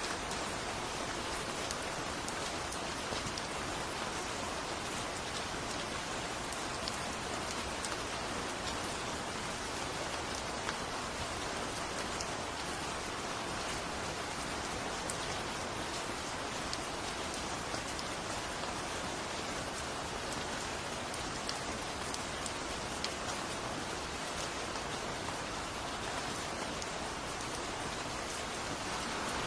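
Steady, heavy rainfall, a dense continuous hiss of drops with many small individual drop ticks on a surface.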